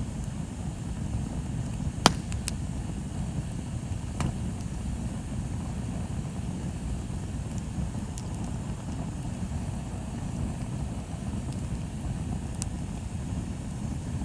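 Bonfire burning, with a few sharp crackling pops, the loudest about two seconds in, over a steady low rumble.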